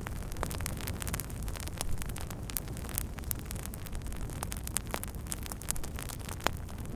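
Wood fire crackling: frequent sharp pops and snaps from the burning wood over a steady low rumble of the flames.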